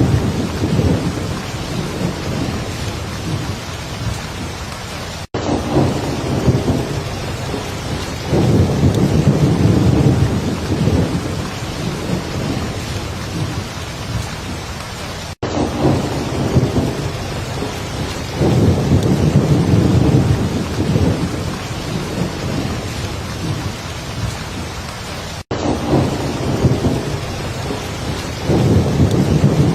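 Heavy rain falling steadily, with low rolling thunder rumbles that swell about every ten seconds. The sound cuts out for an instant three times, about ten seconds apart.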